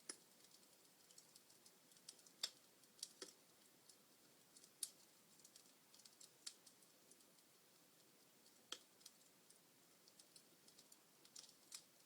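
Wood fire crackling in a fireplace: irregular sharp pops and snaps from burning logs over a faint hiss, the loudest pops about two and a half, five and nine seconds in.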